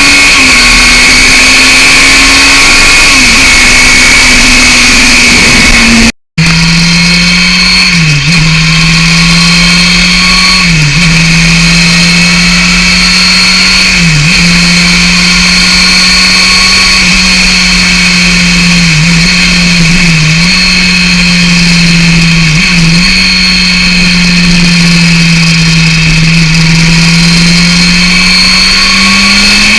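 Yamaha FZR 600 inline-four with a BOS aftermarket exhaust, running at a steady high engine speed while being ridden, with several short dips in pitch. The audio cuts out for a moment about six seconds in, and after that the engine note is lower.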